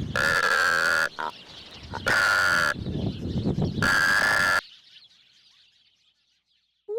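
Loud, nasal, honking bird calls, repeated four times, each well under a second long and held at a steady pitch, then fading out. The calls are given as the voice of a secretary bird.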